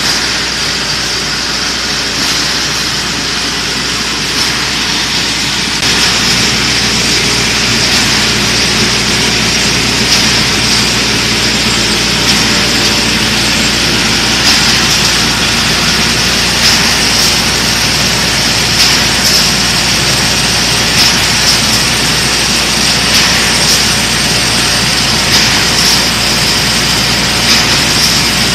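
Rebar and wire straightening-and-cutting machine running: a loud, steady mechanical noise with a high, hissing whine over it. From about halfway in, short louder knocks come roughly every two seconds.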